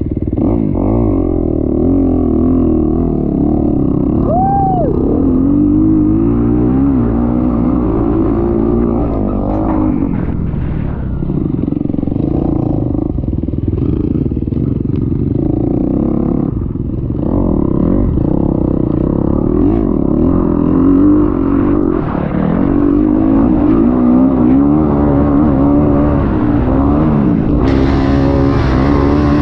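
Dirt bike's single-cylinder four-stroke engine revving up and down repeatedly as it is ridden hard, with a rise in hiss near the end.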